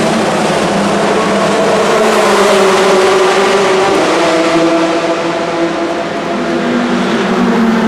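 Racing car engine running loud, its pitch edging up and then dropping about four seconds in.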